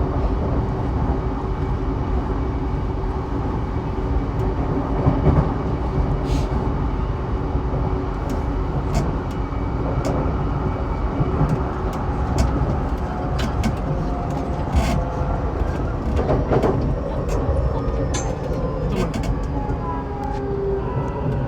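Interior running noise of a Saikyo Line E233-7000 series electric train at speed: a steady rumble of wheels on rail with a motor hum and scattered short clicks of the wheels passing over rail joints.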